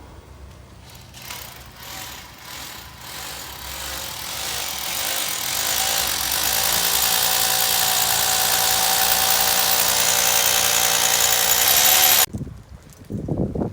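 A motor-driven machine running up over several seconds to a loud, steady whine with a noisy rush, then cutting off suddenly near the end, followed by a few thumps.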